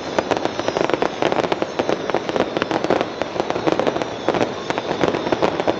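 Large fireworks display going off in rapid succession: a dense, continuous crackle of many overlapping pops and bangs with no let-up.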